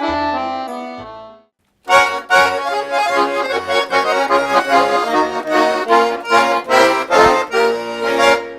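Garmon (Russian accordion) music: a sustained phrase fades out, and after a brief silence lively, fast playing with rhythmic accented chords starts about two seconds in.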